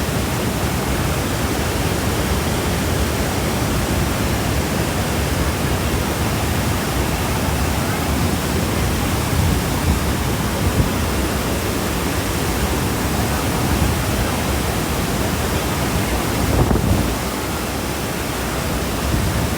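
Steady rushing roar of the water pouring over Niagara Falls, dipping slightly in level near the end.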